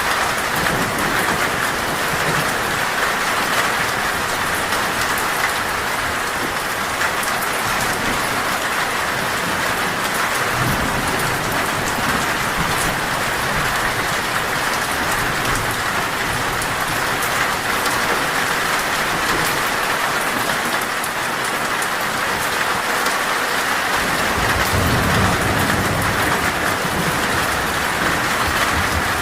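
Torrential rain falling on a metal roof, a steady dense patter, with low rolls of thunder about a third of the way in and again near the end.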